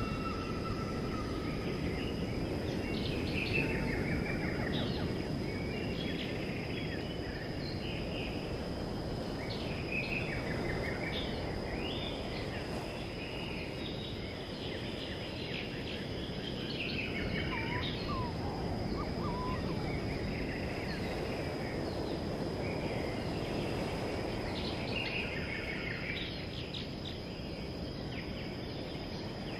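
Birds chirping again and again over a steady low outdoor rush, with a thin, steady high-pitched tone running underneath.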